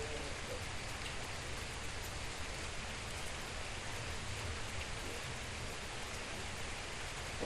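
Steady rain falling, an even hiss with scattered drops.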